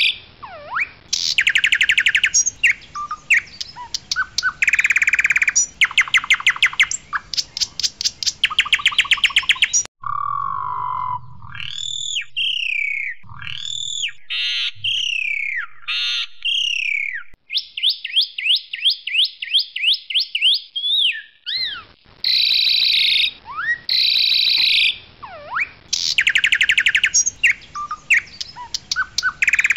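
Asian pied starling (jalak suren) singing loudly. Its song is repeated bursts of rapid rattling trills. About ten seconds in, the recording switches abruptly to a stretch of slurred falling whistles, then a fast run of clipped rising notes, before the trills return near the end.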